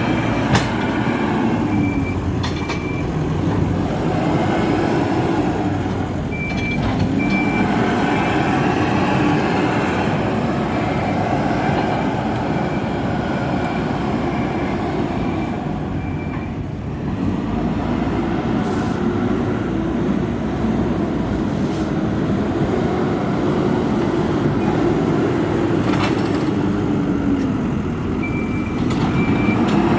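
Hidromek 102B backhoe loader's diesel engine working under load, its pitch rising and falling as the machine moves, with a reversing alarm beeping in short runs near the start, about six seconds in and near the end, and a few sharp clanks.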